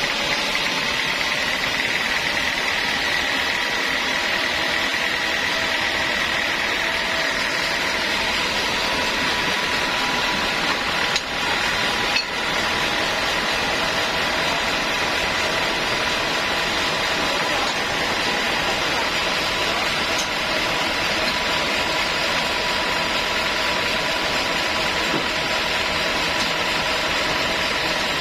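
Sawmill saw running steadily, cutting through a large log, with a constant high whine over the noise of the cut. There are two short clicks near the middle.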